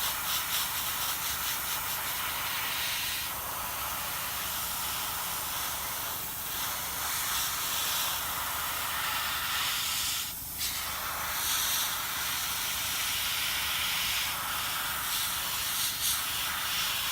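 Airbrush blowing a steady hiss of air over the model to dry freshly applied varnish. The hiss breaks briefly twice, about six and ten seconds in.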